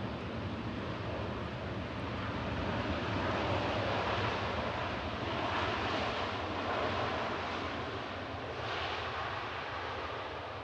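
Jet airliner passing, its engine noise swelling to a peak about halfway through and then fading.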